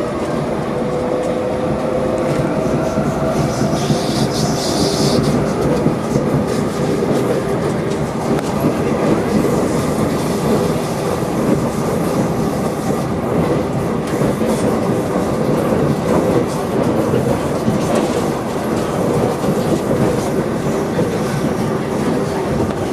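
SMRT C751B metro train heard from inside the carriage while running at speed: a steady rumble of wheels on the rails. A brief high-pitched noise comes about four seconds in.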